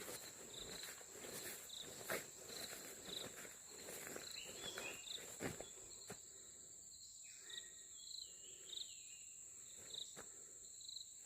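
Steady high-pitched insect drone with short, regularly repeated chirps. Footsteps on a dirt path tap through the first half, and a few brief gliding bird calls come after the midpoint.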